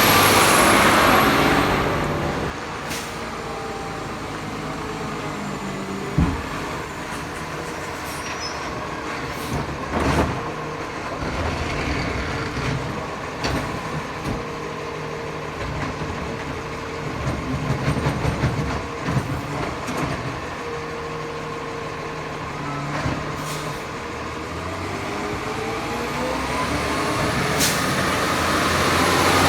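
Diesel McNeilus Zero Radius garbage truck. Its engine is loud for the first couple of seconds, then runs steadily, with sharp knocks about 6 and 10 seconds in and a spell of clattering in the middle. Near the end the engine pitch rises and it gets louder as the truck accelerates.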